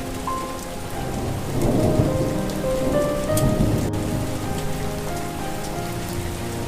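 Steady rain with a slow melody of held notes over it, and a rumble of thunder that swells about one and a half seconds in and fades by about four seconds.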